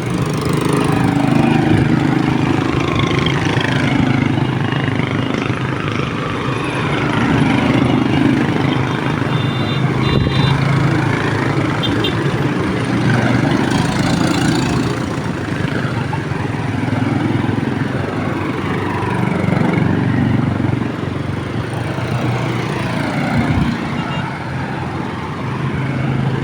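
Several small motorcycle engines running together as a parade of motorcycles rides past, their pitch rising and falling as they pass, with a few short high beeps near the middle.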